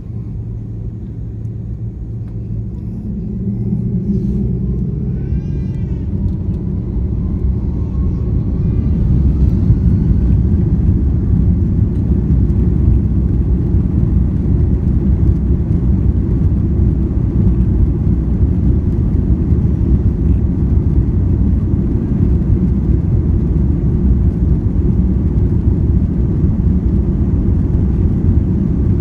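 Jet airliner heard from inside the cabin on its takeoff roll: the engines spool up with a faint rising whine and the low rumble grows louder over the first several seconds, then holds as a steady loud rumble of engines and wheels on the runway.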